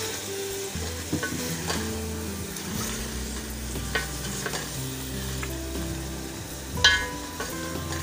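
Chicken pieces sizzling in hot oil with onion, tomato and ginger-garlic paste in a metal pot as a wooden spoon stirs them. The spoon knocks against the pot a few times, loudest near the end.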